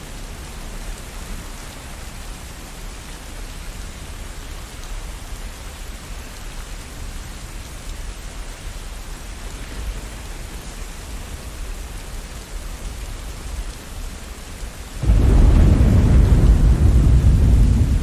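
Steady rain, then about fifteen seconds in a sudden, loud, deep rumble of thunder that keeps rolling.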